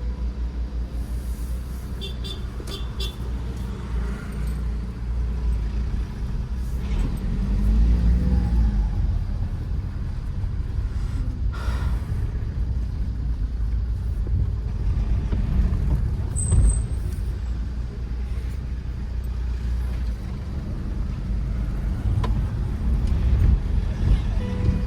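Tata Safari Storme's diesel engine and road noise while driving, a steady low rumble, with a few light clicks about two seconds in.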